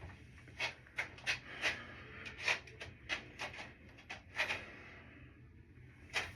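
A run of irregular light clicks and knocks, about a dozen, with a quieter stretch near the end, over a faint steady low hum.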